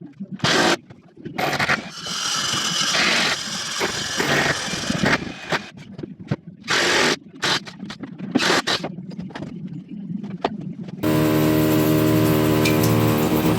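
Irregular bursts of power-tool noise and work sounds, each lasting from half a second to a couple of seconds with short pauses between. Background music comes in about eleven seconds in.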